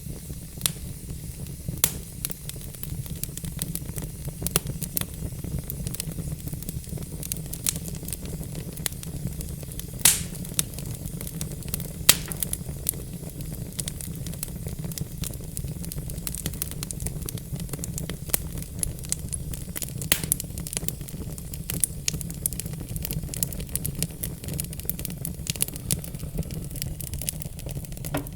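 Log fire crackling and popping irregularly over a steady low rumble, with a couple of louder pops about ten and twelve seconds in.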